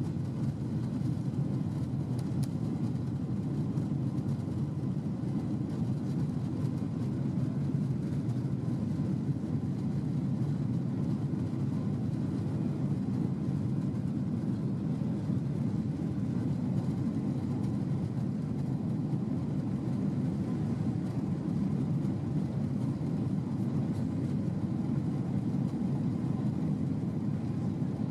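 Steady low drone of a Boeing 767-300's engines and rushing air, heard inside the passenger cabin.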